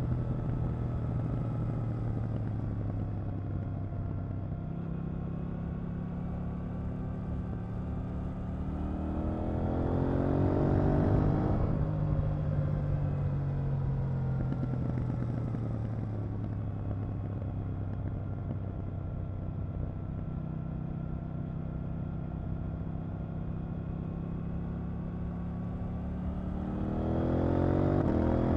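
KTM 890 Duke R's parallel-twin engine under way, rising in pitch and getting louder as it accelerates about ten seconds in, then easing off and dropping back to a steadier note, before accelerating again near the end.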